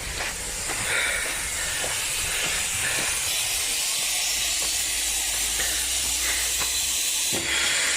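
Steady hiss, with a few faint clicks.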